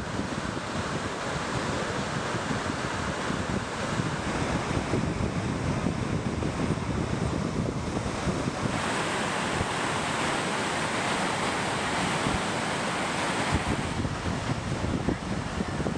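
Pacific Ocean surf breaking and washing up the beach, with wind buffeting the microphone. The hiss of the wash grows louder for about five seconds in the middle.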